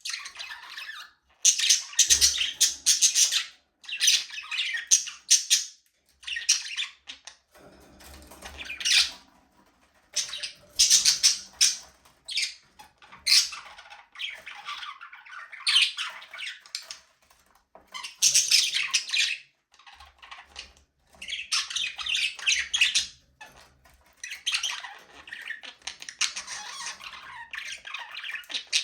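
Budgerigars chattering and chirping in bursts of a second or two, separated by short pauses.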